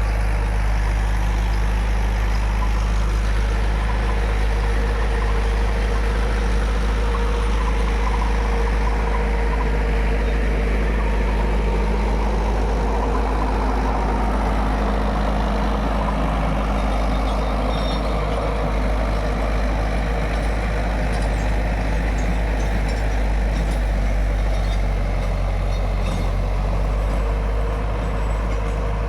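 Mahindra 475 DI tractor's four-cylinder diesel engine running steadily under load while driving a rotavator through the soil.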